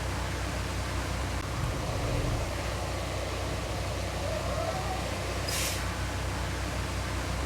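Heavy diesel engine of earthmoving equipment running steadily, with a brief hiss about five and a half seconds in.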